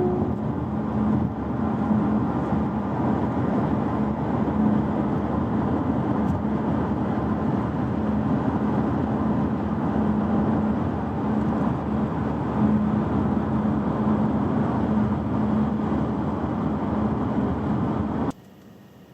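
Chery Omoda being driven, heard from inside the cabin: steady road and drive noise with a low, even hum. It cuts off suddenly near the end, leaving quiet room tone.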